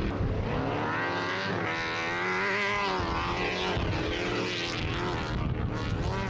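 A race vehicle's engine running loud, revving up and back down over a couple of seconds about a second in.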